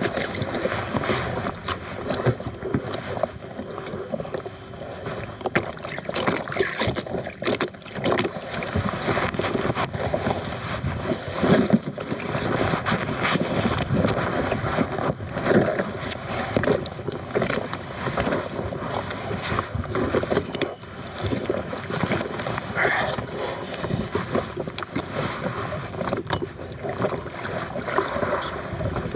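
Double-bladed paddle strokes splashing in lake water beside an Itiwit X100 kayak, with water sloshing and many irregular small knocks and splashes.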